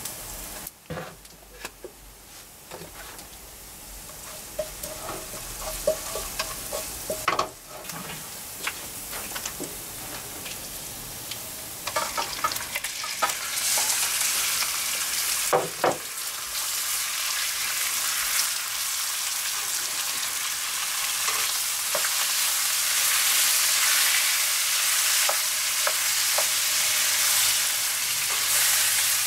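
Food frying in a hot pan, with a utensil stirring and knocking against the pan now and then. The sizzle grows louder from about halfway through.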